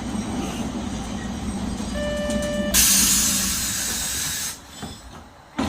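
Nagasaki Electric Tramway 370-series tram car running with a low hum, then a short electronic beep about two seconds in, followed by a loud hiss of compressed air lasting under two seconds. After the hiss the running noise drops away and a single knock comes near the end.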